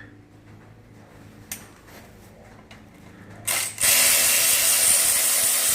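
A power ratchet running steadily for a couple of seconds, starting a little past halfway, as it spins out a transmission oil strainer bolt.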